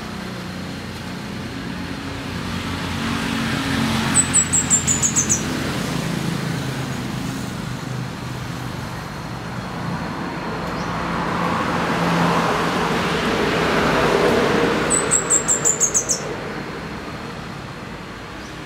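Orange-bellied flowerpecker singing two short bursts of rapid, very high, slightly falling notes, about ten seconds apart. Underneath runs a steady rumble of road traffic that swells twice as vehicles pass.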